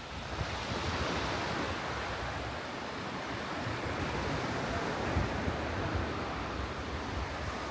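Sea surf breaking and washing up the beach, swelling up just after the start and holding steady, with a low rumble underneath.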